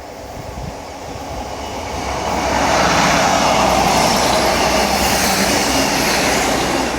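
Passenger train passing close by, its rush of wheels on rails building over a couple of seconds to a loud peak, then easing slightly as it goes by.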